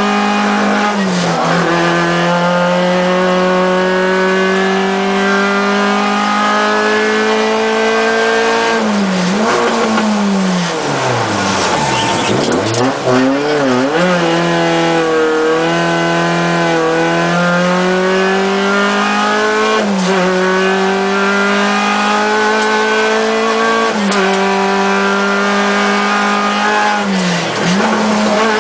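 Volkswagen Golf Mk3 rally car's engine, heard from inside the cabin, running hard at high revs, its pitch dipping briefly at each of several gear changes. From about nine to thirteen seconds in, the revs fall low and waver through downshifts, then climb again.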